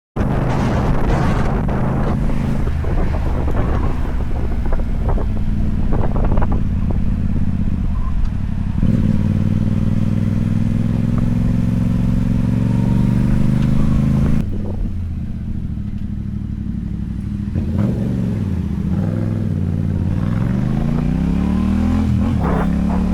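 Motorcycle engine running while riding. The revs are held steady, drop suddenly about two-thirds of the way through, then fall and climb again toward the end.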